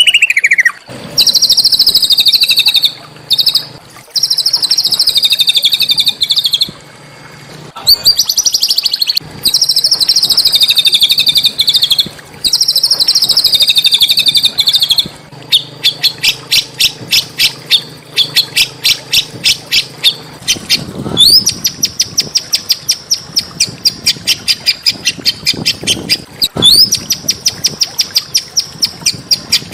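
A small songbird singing loud, fast trilled phrases for the first half, then a quick run of sharp repeated notes; twice a short rising note leads into a high, steady trill.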